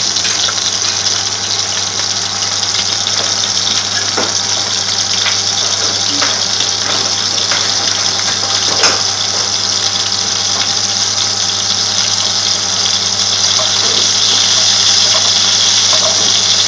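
Shami kababs shallow-frying in hot oil in a pan: a steady sizzle with scattered small pops and crackles, and one sharper pop about halfway through. A steady low hum runs underneath.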